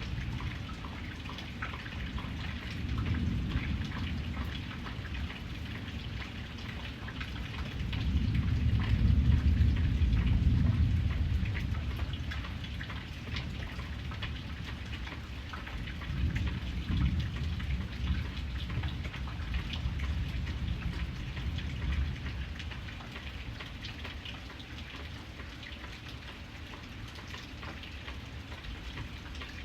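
Steady rain with individual drops ticking throughout. Low rumbles of thunder swell and fade several times; the longest and loudest comes about eight to eleven seconds in.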